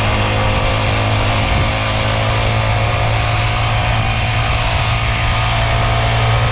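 Small kids' dirt bike engine running steadily while being ridden, holding a constant low drone with no change in pitch.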